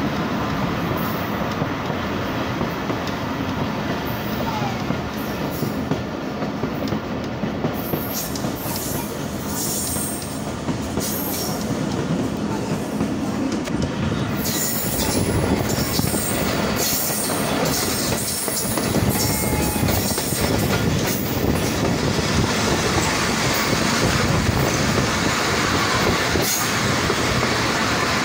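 Mohen Jo Daro Express passenger carriage running along the track, heard from an open door or window: a steady rumble of wheels on rail with clicks and brief high-pitched wheel squeals starting about a third of the way in, growing louder about halfway through.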